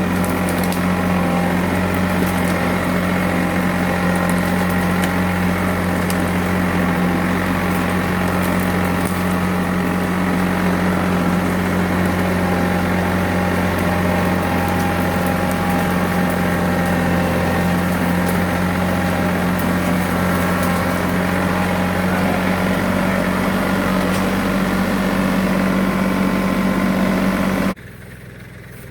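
Four-wheel-drive tractor engine running steadily under load, dragging a chained log up out of a creek bed; its pitch holds steady throughout. The sound cuts off abruptly near the end.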